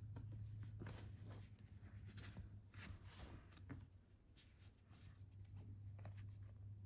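Soft, scattered rustles of paper and packaging as manga books are handled, over a steady low hum.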